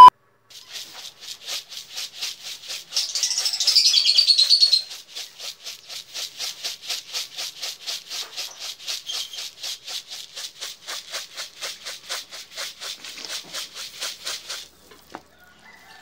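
Birds chirping in a fast, even rhythm of about four to five calls a second, with a louder stretch of calls about three to five seconds in. The chirping stops shortly before the end.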